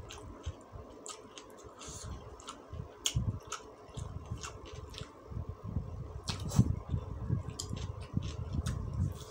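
Close-up eating sounds: chewing fried noodles (mie tek tek) with a soft half-cooked egg, with wet mouth clicks and a metal spoon and fork clinking and scraping on a ceramic plate, over a faint steady hum.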